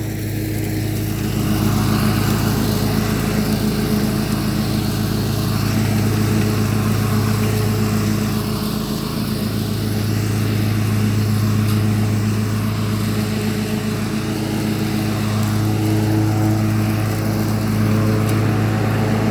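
Riding lawn mower engine running steadily at an even speed, with a constant low hum.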